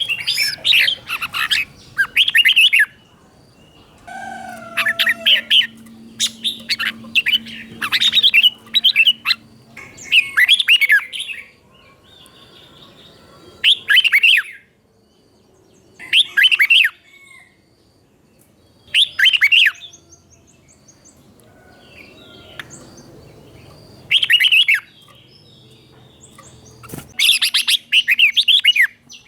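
Red-whiskered bulbul singing bright, chirpy whistled phrases. The song comes in bursts of a second or two, separated by pauses of a few seconds.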